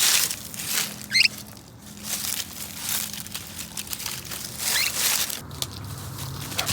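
Dry fallen leaves crunching in a series of crunches. A short, high wavering squeak about a second in is the loudest sound, with a fainter one near five seconds.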